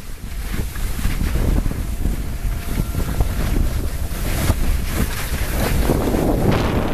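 Wind buffeting the microphone: a loud, continuous low rumble with a rushing hiss and scattered sharp knocks.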